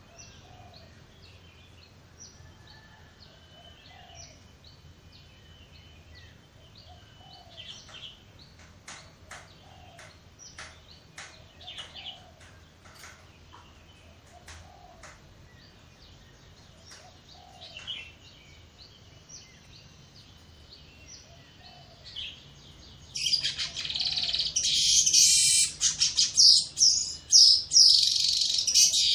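Weaver birds calling: scattered faint, short chirps for most of the stretch, then a loud, dense chattering chorus that breaks out a few seconds before the end.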